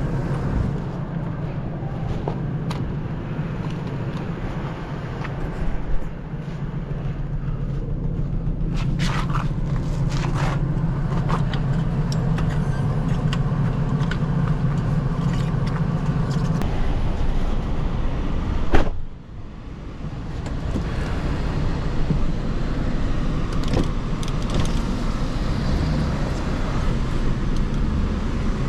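Vehicle engine and drivetrain running steadily under way on a test drive after a driveline and U-joint replacement, a low drone that builds for a while and then eases. A single sharp knock comes just past the middle, followed by a brief drop in the engine sound.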